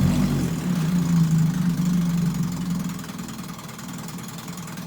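1956 Johnson 5.5 hp two-stroke twin outboard running in forward gear in a test tank, running pretty happy after a full tune-up on 16-to-1 fuel. The engine note drops and fades about three seconds in.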